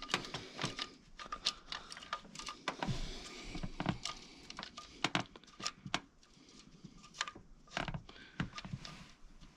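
Irregular light metallic clicks and clinks of timing chain and guide parts being handled and fitted by hand.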